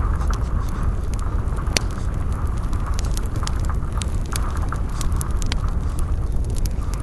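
Campfire burning with frequent sharp crackles and pops over a steady low rumble.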